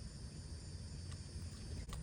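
Outdoor ambience: steady high insect trilling over a low rumble, with two faint clicks about a second in and near the end.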